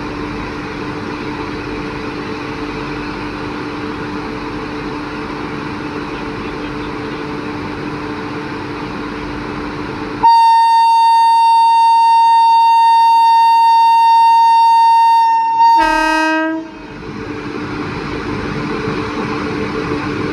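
Locomotive running with a steady low drone and rumble. About ten seconds in, a loud single-note train horn sounds for about five seconds, then gives a short second toot that sags in pitch. The rumble then returns and slowly builds as the train pulls away.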